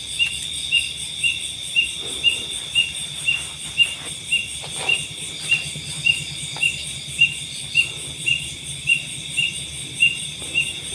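Night insects chirping, a short chirp repeating about three times a second over a steady high-pitched insect drone.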